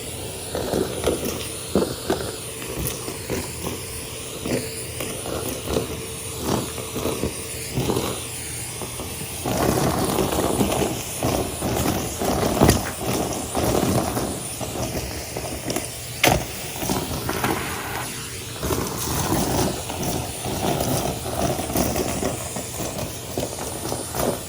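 Henry canister vacuum cleaner running steadily while sucking up debris, with frequent crackles and rattles of crunchy bits going up the nozzle and hose. The suction gets louder and busier about ten seconds in.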